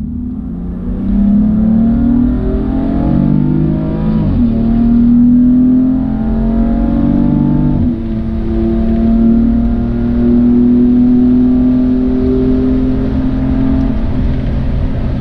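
Car engine accelerating hard through the gears: its pitch climbs and then drops sharply at two upshifts, about four and eight seconds in, before a long steady pull.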